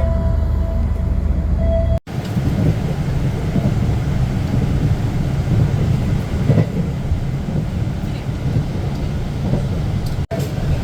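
Steady low rumble of a passenger train running along the track, heard from inside the coach of the Gaya Baru Malam Selatan, with a brief dropout about two seconds in.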